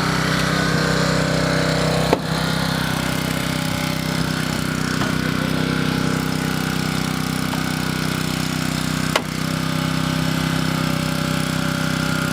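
An engine running steadily at an even speed, with two sharp clicks about seven seconds apart.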